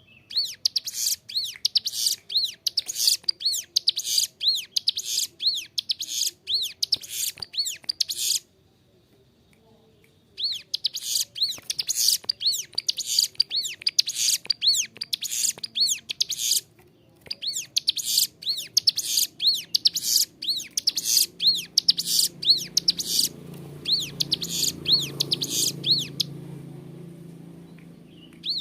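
Ciblek gunung, a prinia, singing long, fast runs of high, sharp repeated chirps, broken by two short pauses. A low rumble rises underneath near the end.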